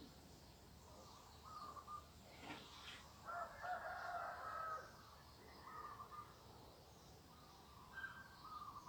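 Faint rooster crowing once near the middle, a call of about a second and a half, among short bird calls repeated every couple of seconds.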